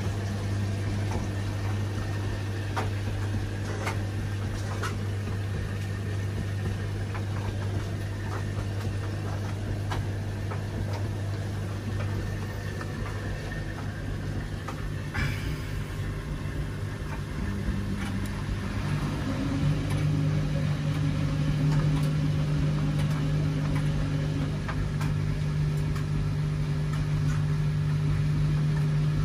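Front-loading washing machine running mid-cycle: a steady motor hum with scattered light clicks. About two-thirds of the way through the hum steps up in pitch and gets louder.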